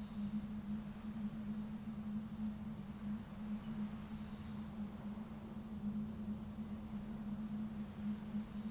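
Outdoor coastal ambience: a steady low hum with faint, brief high chirps from small birds every second or two.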